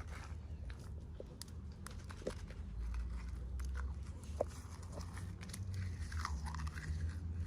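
Toy packaging being handled and opened by hand: scattered light clicks and crinkles over a low steady hum.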